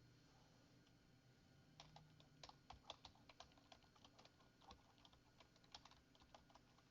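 Faint typing on a computer keyboard: a run of irregular keystrokes starting about two seconds in and lasting several seconds.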